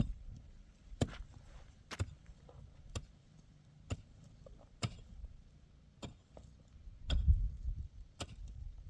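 A hand tool striking wood in a steady rhythm, eight sharp blows about a second apart, with one heavier thud about seven seconds in.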